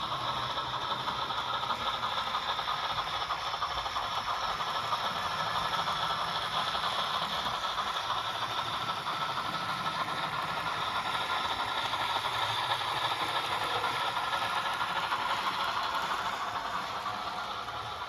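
Rivarossi HO scale steam locomotive model running after its DCC install: a steady rattling, train-like sound that starts at once and eases off near the end.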